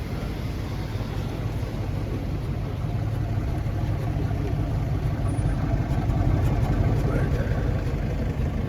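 Car engine running at low speed with a steady low rumble, getting louder around six to seven seconds in, over street noise and background voices.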